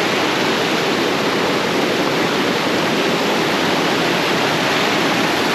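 Loud, steady rush of whitewater from a mountain river tumbling over rapids and falls.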